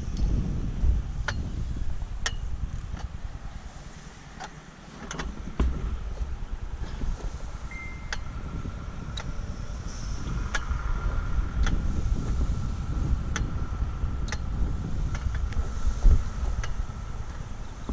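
Wind buffeting the microphone with a gusting low rumble, dropping briefly about four seconds in, with scattered light clicks and knocks and a faint steady whine through the middle.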